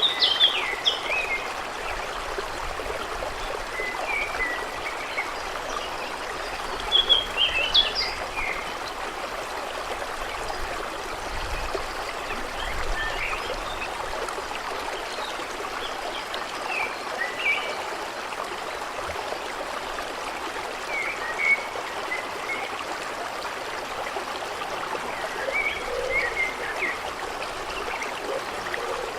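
Stream running steadily, with songbirds chirping in short scattered phrases every few seconds over the water.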